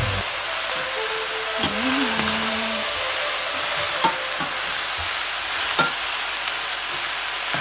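Luffa chunks and minced pork sizzling in a hot stainless steel pot while a spatula stirs them, with a few light knocks.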